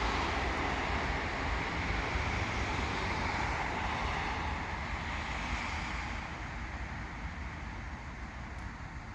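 Rumbling noise of a freight train moving away, slowly fading.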